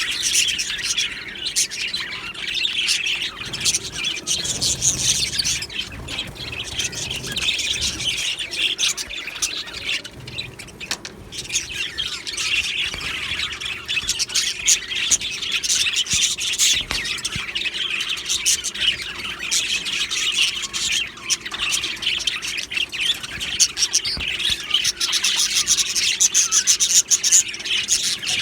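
A flock of budgerigars chirping and chattering at once, a dense, continuous warbling with sharper squawks mixed in.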